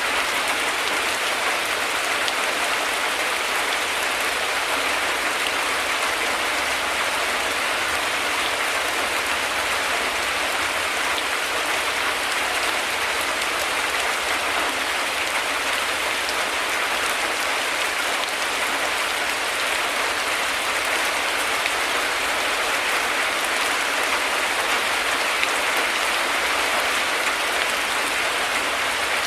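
Heavy rain falling steadily, a dense even hiss of drops with no thunder heard.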